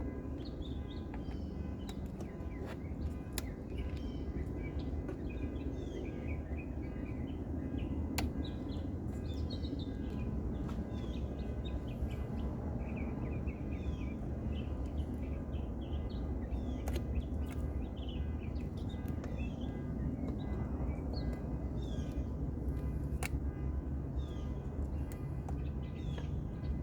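Small birds chirping over and over, over a steady low rumble, with a few faint clicks.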